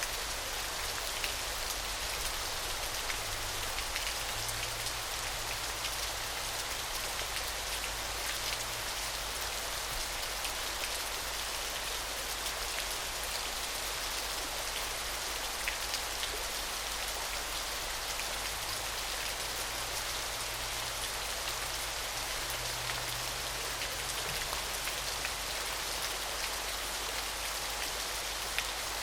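Small waterfall splashing steadily: an even, high hiss of falling water sprinkled with fine, pattering droplet splashes.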